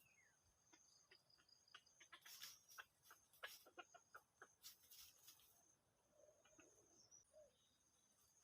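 Near silence: faint outdoor ambience with thin high insect or bird tones and a few soft clicks between about two and five seconds in.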